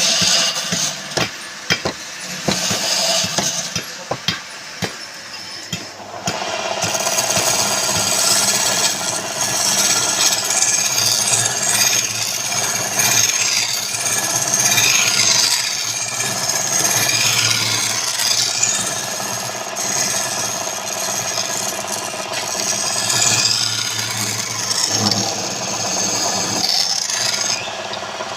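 Wood lathe with a tool scraping and rubbing against the spinning wood, with a steady motor hum under it. A few scattered knocks come in the first six seconds before the cutting noise settles into a continuous run.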